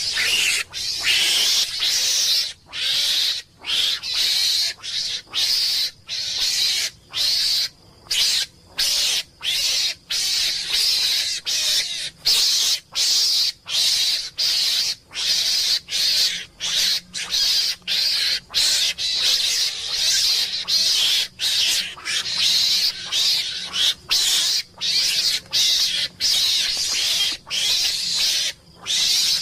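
Mongoose giving a long series of short, harsh, hissing calls, a little more than one a second.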